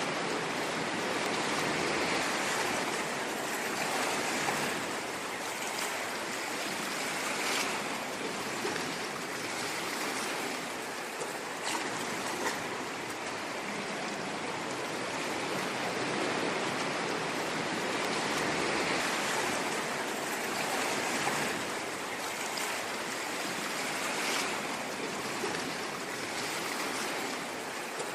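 Ocean waves washing onto a shore, a continuous hiss of surf that swells and eases every few seconds, with small splashes now and then.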